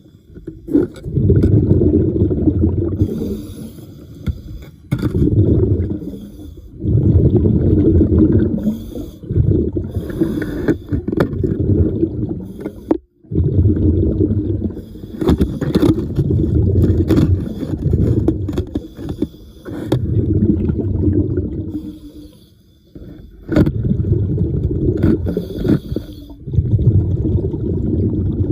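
A diver breathing underwater: exhaled air bubbles out in regular rumbling bursts about every two to three seconds, with short quiet gaps between breaths and a few sharp clicks.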